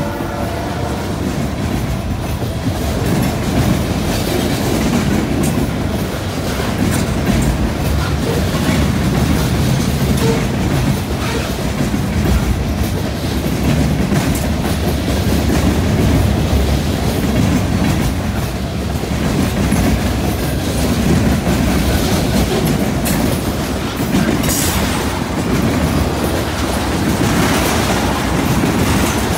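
Freight train cars rolling past close by: a steady heavy rumble of steel wheels, with the clickety-clack of wheels over rail joints and a junction switch. The cars are loaded centerbeam lumber flatcars and then tank cars.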